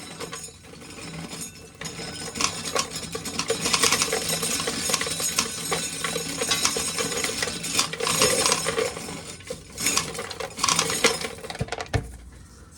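Corn sheller running, a steady machine hum under a dense clatter of shelled kernels rattling and clinking against metal, easing off briefly near the start and again near the end.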